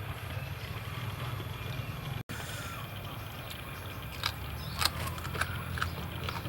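A steady low hum, with a few sharp clicks about four to six seconds in.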